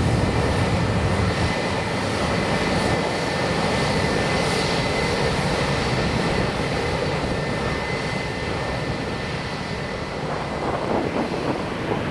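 Jet airliner engines: a steady high whine over a broad rushing noise, the deep rumble dropping away after about a second and a half and the whole sound slowly fading. Gusts of wind buffet the microphone near the end.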